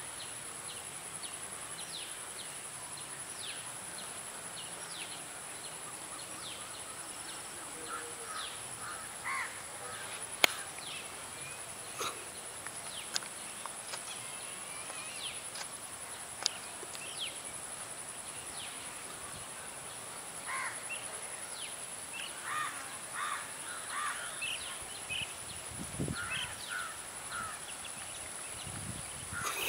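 Outdoor natural ambience with many short bird chirps and calls, and crows cawing, most often in the last third. Under them runs a steady high-pitched insect drone, and a few sharp clicks stand out.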